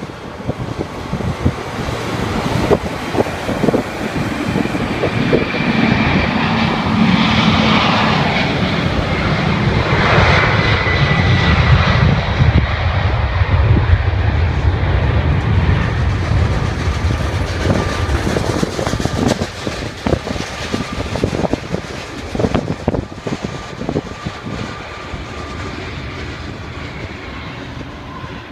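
Jet airliner passing by: the engine noise builds to its loudest about ten to fourteen seconds in, then slowly fades. A high whine over a deep rumble bends down in pitch as it goes past.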